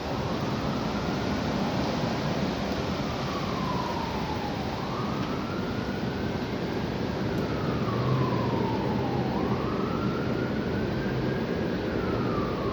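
A siren wailing, its pitch slowly rising and falling about three times, over a steady rush of wind noise.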